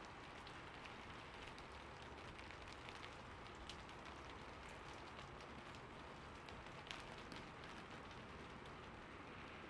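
Faint, steady rainfall: an even hiss of rain with scattered sharper drop ticks, one a little louder about seven seconds in.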